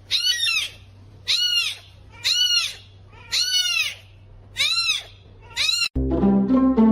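An animal's high-pitched call, repeated about once a second, with each call rising and then falling in pitch. Music cuts in near the end.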